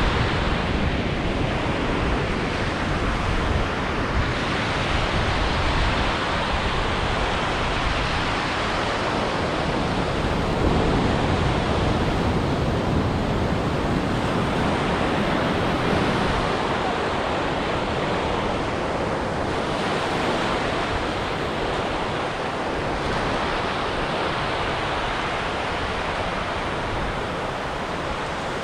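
Ocean surf breaking and washing up a beach: a steady rush of waves that swells and eases every few seconds.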